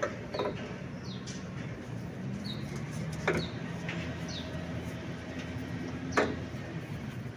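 Small birds chirping, each chirp short, high and falling, every second or so. Two sharp knocks stand out, about three seconds in and near the end, over a faint low steady hum.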